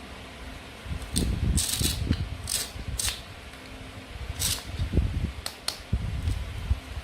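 Toy play food being cut and handled: an irregular run of sharp clicks and taps, short rasps and low thuds, starting about a second in.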